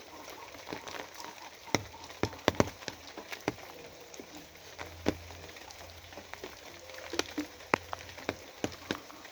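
Steady rain with heavy drops tapping irregularly on a surface; a few louder, sharper drips stand out, several in a cluster about two and a half seconds in.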